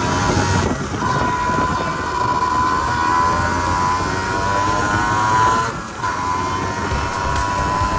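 Honda NSR small single-cylinder two-stroke motorcycle engine running at high revs under load, its note slowly climbing. It breaks off briefly about a second in and again near six seconds, then climbs again, as with upshifts. A low wind rumble runs underneath.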